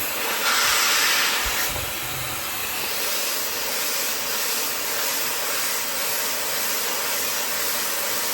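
High-speed brushless hair dryer blowing steadily as it dries hair, a constant airy rush that swells louder for about a second shortly after the start.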